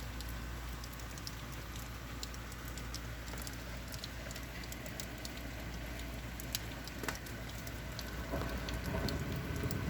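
Rain falling steadily during a thunderstorm, with individual drops ticking sharply on nearby surfaces. Near the end a low rumble of thunder starts to build.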